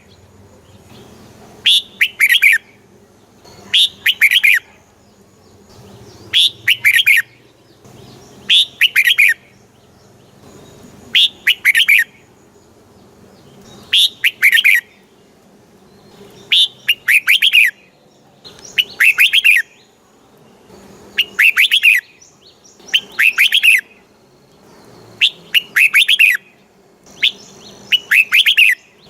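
Red-whiskered bulbul singing: short bright phrases of a few quick notes, repeated about every two seconds.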